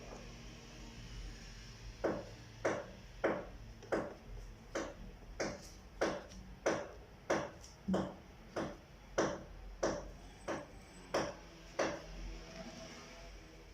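A hand tool striking or working a piece of material in a steady rhythm: about sixteen short, sharp strokes, roughly one and a half a second, starting about two seconds in and stopping near the end.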